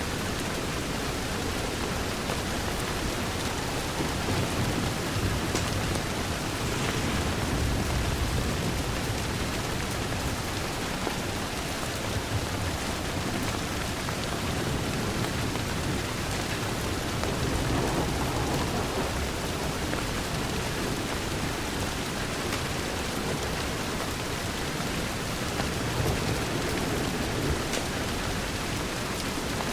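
Steady heavy rain beating on a window, an even hiss of drops, with slow low rumbles swelling now and then underneath.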